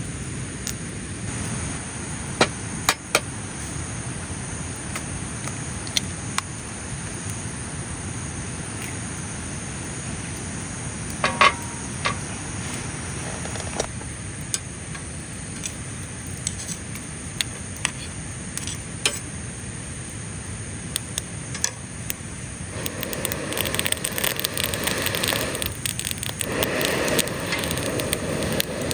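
Wood campfire crackling, with scattered sharp pops over a steady hiss; a louder rushing hiss swells in about 23 seconds in.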